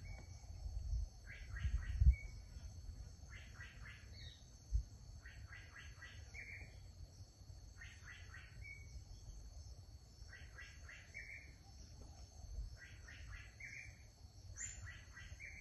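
A bird singing the same short phrase over and over, about every two seconds: a quick run of four or five notes ending in a short slurred note. A steady high drone and a low rumble sit underneath, with a dull thump about two seconds in.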